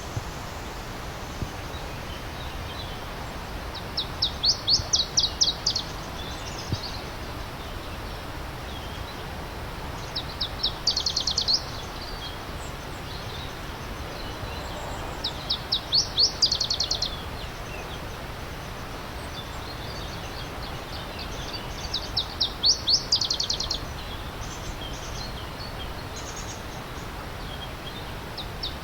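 A songbird repeating the same short song about every six seconds, each a quick run of roughly eight to ten sharp, high notes lasting about a second and a half, over the steady rush of a stream.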